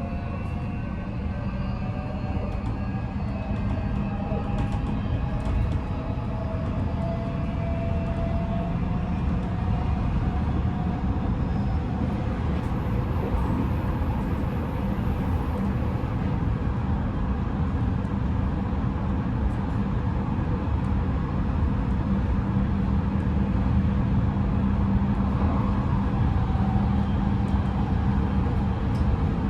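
Odakyu 5000 series electric train heard from inside the car while running, with its Mitsubishi full-SiC VVVF inverter and traction motors humming over a steady rumble of wheels on rail. Thin motor tones climb slightly during the first eight seconds or so, then fade, while a lower steady hum grows stronger near the end.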